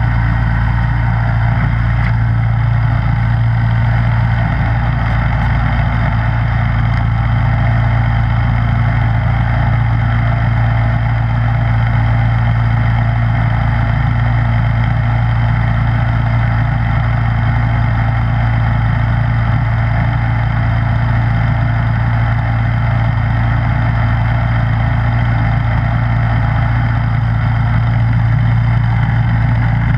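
Snowblower engine running steadily at an even pitch, a constant low mechanical drone that does not change.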